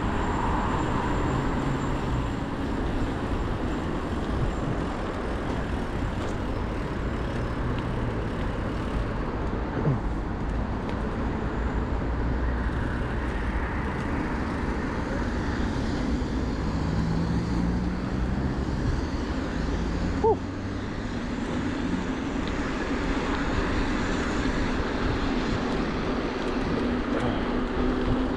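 Steady road traffic noise heard from a moving bicycle, with rumble low down and vehicle engines humming past, and two short sharp knocks about ten and twenty seconds in.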